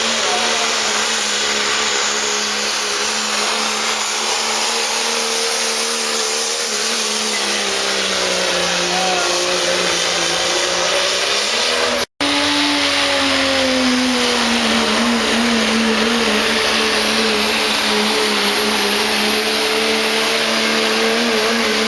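Diesel pickup truck engine running hard under load on a truck pull, its pitch sagging and climbing as the sled drags. The sound cuts out for a split second about halfway through, then the engine continues.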